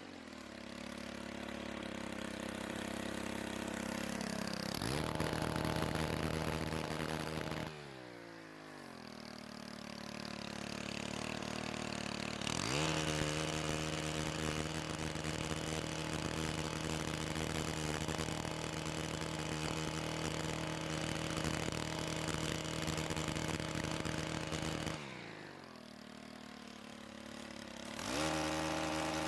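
Two-stroke engine of a pole chainsaw revving up and held at high speed for cuts, dropping back to idle about eight seconds in and again near the 25-second mark, then revving up once more at the end.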